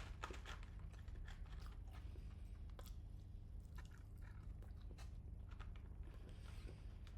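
Close-up chewing and mouth sounds of a person eating fast food, with scattered small crunchy clicks.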